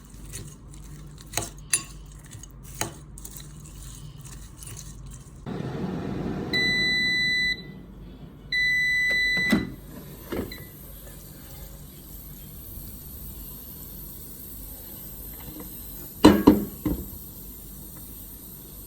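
Kenta air fryer's control panel beeping twice, each beep about a second long, then its fan starting with a steady high hiss. Light clinks of utensils come before, and a loud clatter of dishes comes near the end.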